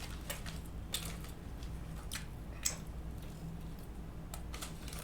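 Faint chewing of a chicken sandwich: scattered small wet clicks and crackles over a steady low electrical hum.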